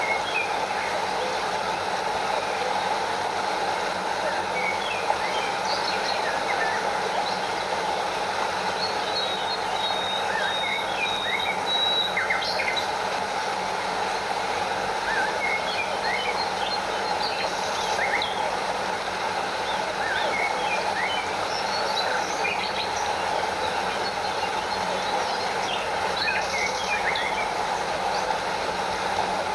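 Steady rush of a stream and small waterfall, with scattered short bird chirps throughout and a thin high trill from about nine to twelve seconds in.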